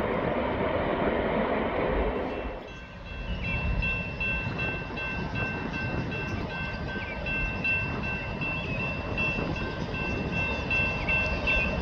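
Freight train rumbling past on the rails, cut off sharply about two and a half seconds in. Then a quieter low rumble with two steady high tones and a few short chirps.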